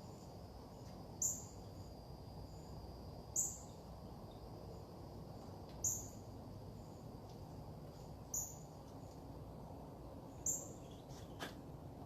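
A bird repeating a short, sharp, high chirp about every two to two and a half seconds, over a steady low hum of background noise.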